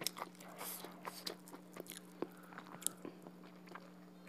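Close-miked chewing and eating sounds of duck curry and rice, heard as an irregular run of short wet clicks. A faint steady low hum sits underneath.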